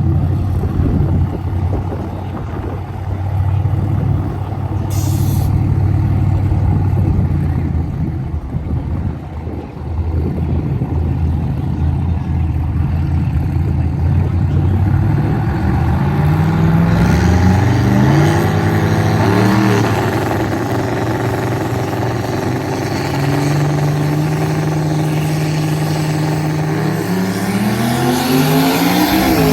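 Truck engines at a no-prep drag race: a steady low engine rumble at first, then, about halfway through, an engine revving up in rising steps. It holds a steady pitch for a few seconds and climbs again near the end.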